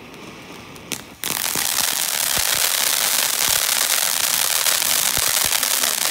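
A consumer ground fountain firework ignites about a second in and sprays with a loud, steady hiss, with scattered crackling pops.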